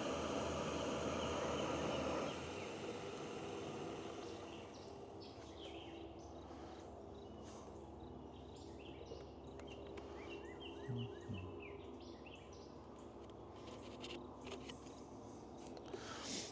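Jetboil Flash camp stove's gas burner hissing as it heats water, cut off abruptly about two seconds in. After that, a quiet outdoor background with birds chirping.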